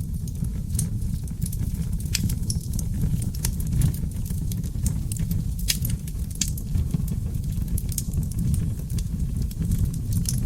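Log fire burning in a fireplace, crackling and popping with many sharp, irregular snaps over a low, steady rumble.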